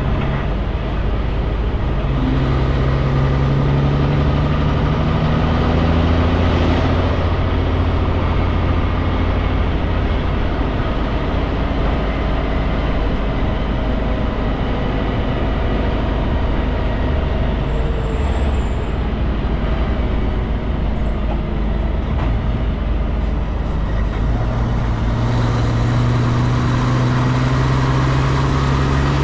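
Kenworth K200 cabover road train driving steadily, its Cummins diesel engine droning continuously. A deeper hum swells in twice, briefly early on and again near the end.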